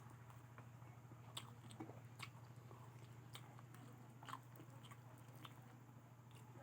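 A person chewing and biting fried potato: faint, scattered mouth clicks and small crunches every second or so, over a steady low hum.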